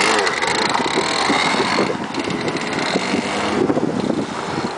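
Dirt bike engine running during a ride.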